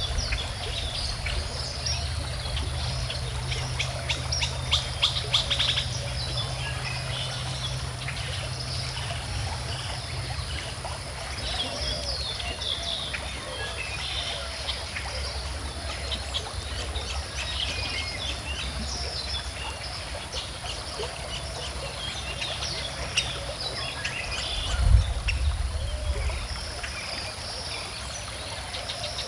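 Several birds chirping and singing over a calm river flowing steadily, with a rapid chattering trill about five seconds in. Near the end a brief low thump stands out above the ambience.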